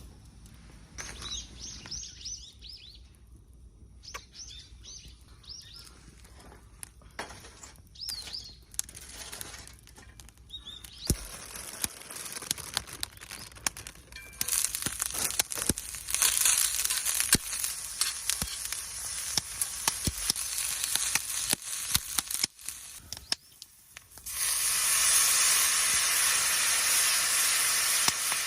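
Short high chirps and scattered light clicks and clinks, then about three-quarters of the way in food hits a hot pan and fries with a steady loud sizzle.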